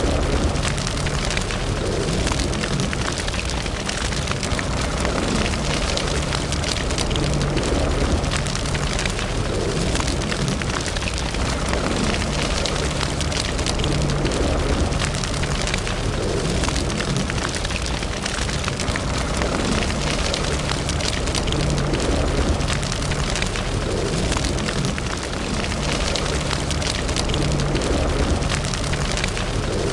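Wood fire burning in a fireplace, a steady rush of flame with dense, continual crackling and small pops.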